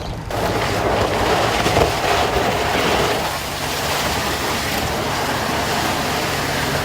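Steady rushing, splashing water, with a low engine hum joining beneath it about three seconds in.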